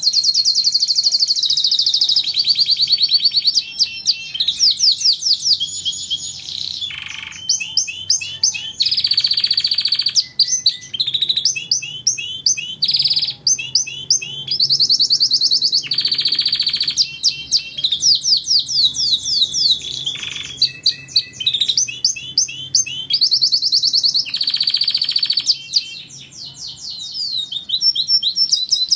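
Domestic canary singing continuously: long rolling song of rapid repeated trills, each phrase a fast series of rising or falling notes, alternating with buzzy held notes and switching phrase every second or two.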